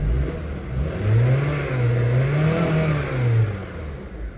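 A vehicle engine revving: its pitch climbs about a second in, wavers up and down, then falls away near the end.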